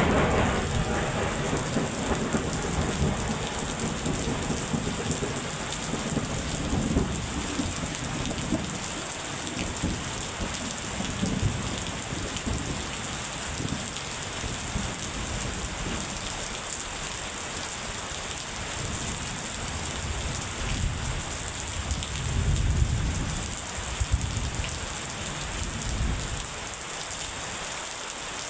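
Steady rain pattering down in a thunderstorm. The tail of a thunderclap rumbles away at the start, and thunder rolls again in low rumbles several times.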